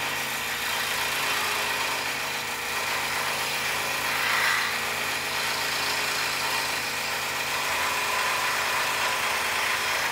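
Scroll saw running steadily, its reciprocating blade cutting through poplar board with a steady motor hum and the rasp of the blade.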